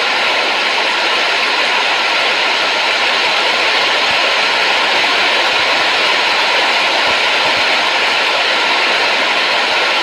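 Steady, unchanging rushing noise of the white-noise kind, with no separate events and a faint steady tone running underneath.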